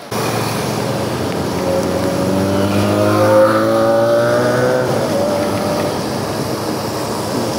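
Motorcycle engine accelerating, its pitch rising steadily for a few seconds, then easing off, over a constant rush of wind noise.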